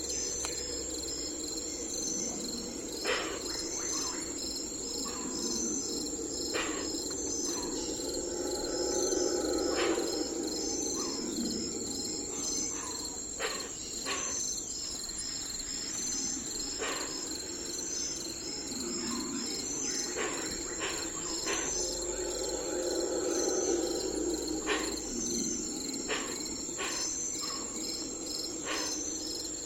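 Crickets chirping in a steady, high, pulsing chorus, with short clicks every few seconds and a low murmur beneath that swells and fades twice.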